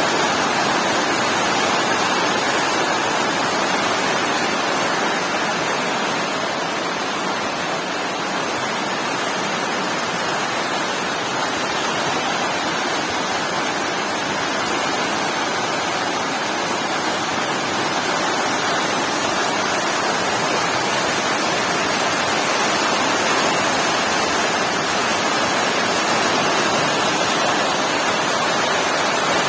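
Heavy rain falling, a loud steady hiss with no breaks and no thunder.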